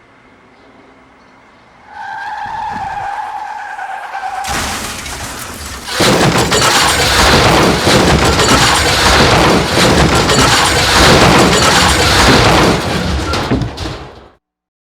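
Car tyres screeching for a couple of seconds, then a long, loud car crash of smashing and crunching that goes on for about ten seconds and cuts off sharply.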